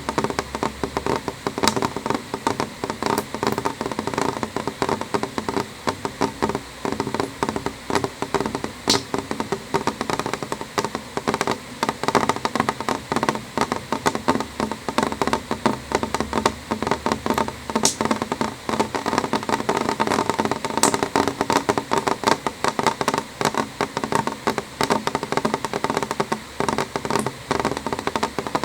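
Rain on a window: a dense, irregular tapping of drops on the glass, with a few sharper, brighter clicks now and then.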